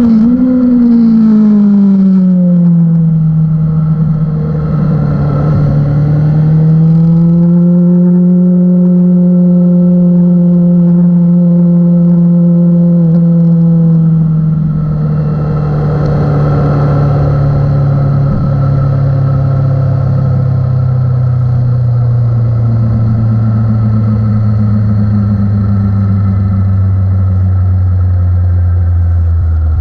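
600-class racing motorcycle engine running under race load. The engine note drops over the first few seconds, climbs again a few seconds later, then sinks slowly and steadily through the second half.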